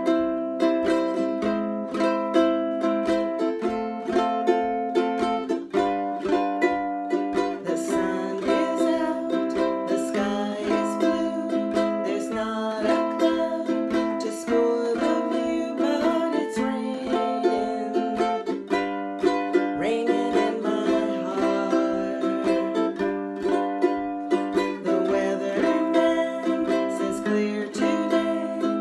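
Ukulele strumming chords in the key of C in a steady island strum, with a few beats of plain down-strums where a chord lasts only two beats.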